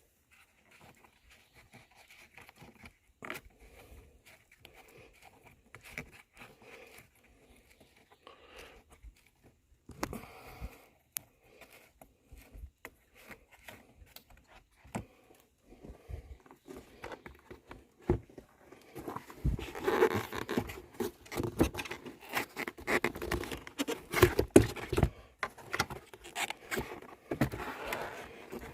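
Handling noises: scattered scrapes, rustles and clicks, getting busier and louder about two-thirds of the way in.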